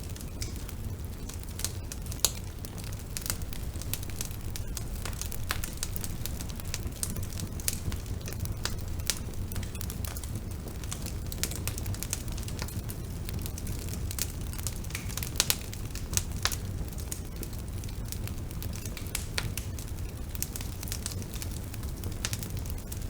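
Bonfire burning: a steady low rumble of the flames with frequent irregular crackles and pops of burning wood, a few of them sharper and louder.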